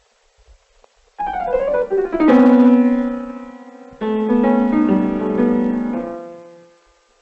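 Piano music from a film score: after about a second of quiet, a quick falling run of notes lands on a held chord, then a second chord is struck about four seconds in and slowly dies away.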